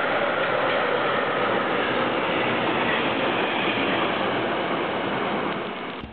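Freight train of long covered wagons rolling past on the rails: a steady loud rush of wheel noise that fades near the end as the last wagons pull away.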